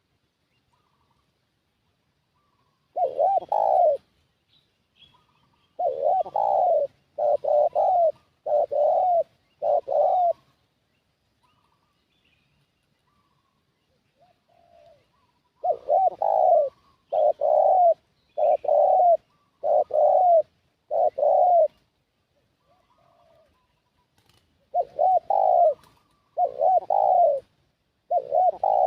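Spotted dove (tekukur) cooing: loud phrases of several low coos each, repeated after pauses of a few seconds, the lure call used to draw in wild doves. Faint higher bird calls sound in the gaps.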